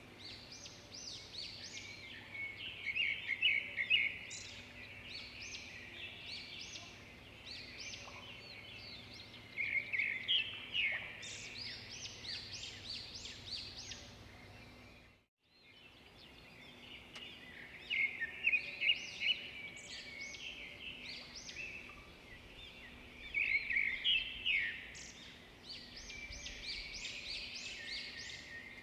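Small birds chirping and twittering in quick series of short high notes, with several louder bursts of rapid chirps. The sound cuts out completely for a moment about halfway through.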